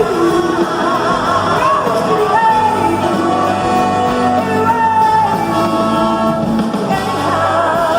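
Live blues-rock band playing, with sung notes held with vibrato over the full band.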